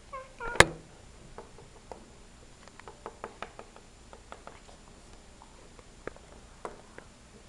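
Small plastic toy figures and accessories being handled and set down on a hard surface: one sharp knock about half a second in, then scattered light clicks and taps.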